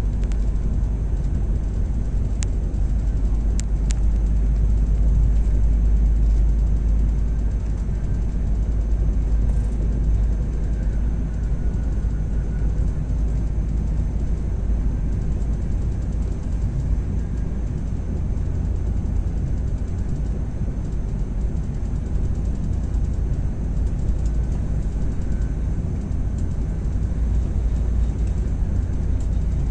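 Steady low rumble of a train in motion, heard from inside the carriage.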